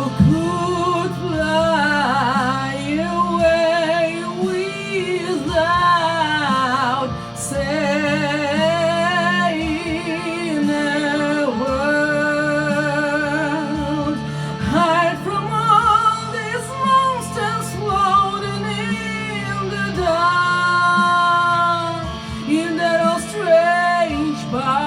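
A song: a voice sings a wordless melody with wide vibrato over steady instrumental backing.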